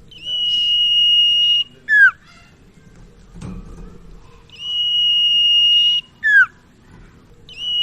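Sirtu (cipau, common iora) singing: a long, steady, high whistle held for over a second, then a short sharply falling note. The phrase comes twice, and a third begins near the end.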